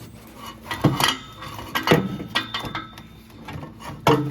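Metal hand tools clinking and knocking against metal while working at a stuck exhaust fastener: a few separate sharp clanks about a second apart, the loudest near the end, with light scraping between.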